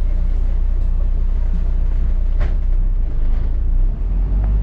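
Double-decker bus heard from on board: a steady low engine and road rumble, with a single short knock or rattle about halfway through.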